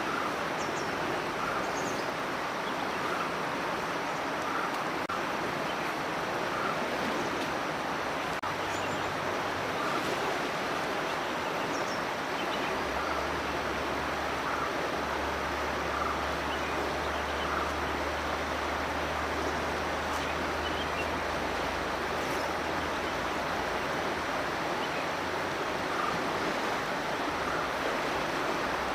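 Steady outdoor rushing noise, like running water, with faint short chirps every second or two. A low steady hum comes in a little under halfway through and fades about three quarters of the way in.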